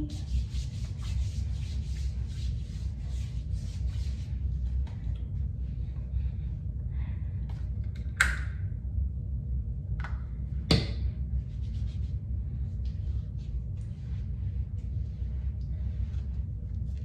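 Hands rubbing lotion into skin: a quick run of soft rubbing strokes over the first few seconds, then fainter, sparser ones. Two sharp clicks come about eight and eleven seconds in, over a steady low rumble.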